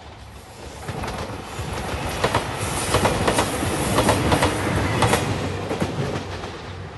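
JR Shikoku 2700 series diesel limited express train passing close by, its wheels clacking in quick groups over the rail joints. It builds up about a second in, is loudest in the middle, and fades near the end.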